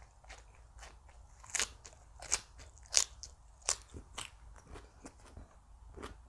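Close-up crunchy chewing of crisp raw vegetables in the mouth, a run of sharp bites and crunches with the loudest about halfway through, and softer chewing between.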